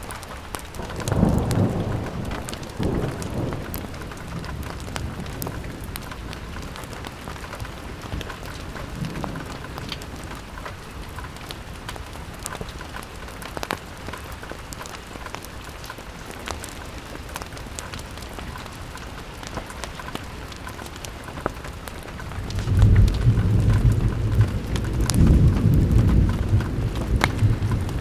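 Steady rain pattering on a window, with thunder rumbling: a brief roll about a second in and a longer, louder one near the end.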